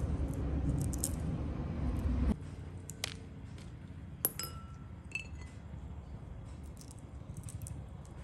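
Steady low rumbling noise that cuts off abruptly about two seconds in. Then come scattered light clinks and ticks of small hard objects, with one sharp clink near the middle that rings briefly like glass or metal.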